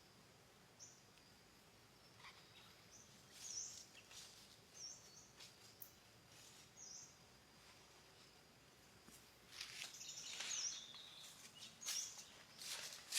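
Faint jungle morning ambience: a bird gives short, high chirps about once a second over a faint steady insect drone. From about two-thirds of the way in, louder rustling crackles come in, like steps through leaves.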